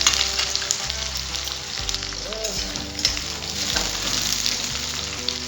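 Chopped onions and cumin seeds sizzling steadily in hot mustard oil in a kadhai, with a few short sharp clicks over the sizzle.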